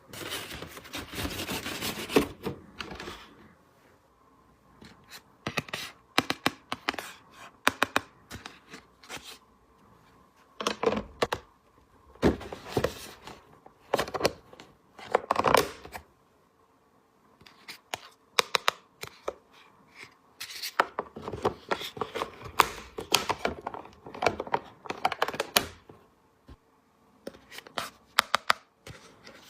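Hands handling plastic toy pieces and packaging: irregular clicks, taps and short rustling scrapes, stopping and starting with brief pauses.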